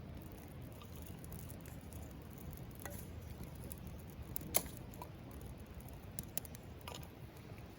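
Small wood campfire crackling: a low rustle of burning kindling with a few scattered sharp pops, the loudest about four and a half seconds in.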